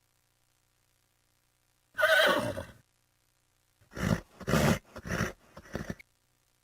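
Horse whinnying: one wavering call about two seconds in, then a run of about five short pulsed calls, roughly two a second.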